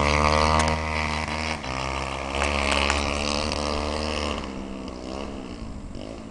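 Dirt bike engine running at a steady, high speed, then easing off and dropping lower and quieter about four and a half seconds in.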